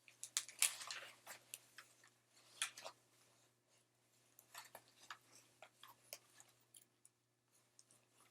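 Irregular clicks and short rustling scrapes of gear being handled, thickest in the first few seconds, then sparser.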